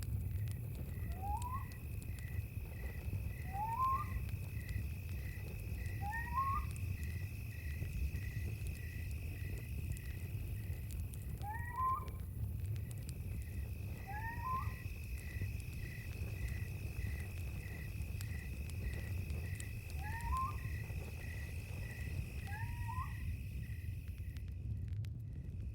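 Night chorus of insects: crickets chirping in an even pulse about twice a second over a steady high insect drone. A short rising call from an unseen animal repeats every few seconds, over a steady low rumble.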